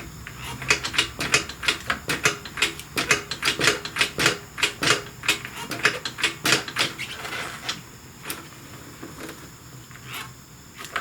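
A rapid run of sharp metallic clicks, several a second, from hand tools working on the motorcycle's shifter hardware, thinning to a few scattered clicks for the last few seconds.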